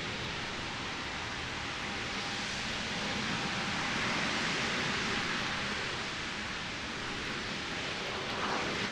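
RS-25 rocket engine test firing: a steady, even rush of noise with no distinct tones.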